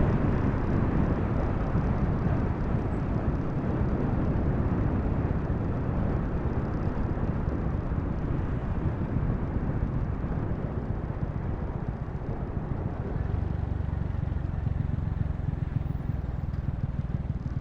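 Steady wind rush on the microphone of a Honda Wave 125 motorcycle rider at road speed, with the bike's running and road noise underneath.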